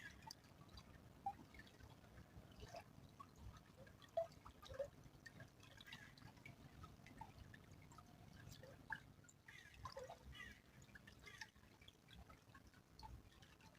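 Faint small stream trickling, with irregular drips and plinks of water.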